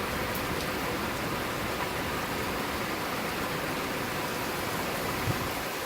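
Steady hiss of heavy rain falling in a thunderstorm downpour.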